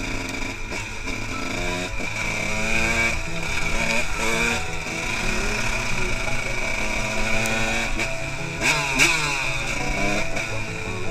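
Honda CR125 single-cylinder two-stroke motocross engine running and being revved up and down several times, its pitch rising and falling.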